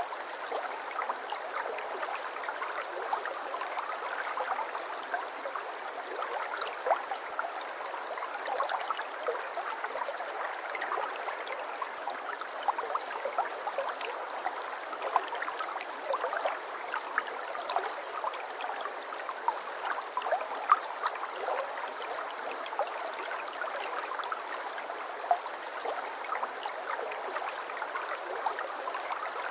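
Shallow brook babbling over stones: a steady wash of running water, thick with small gurgles and splashes.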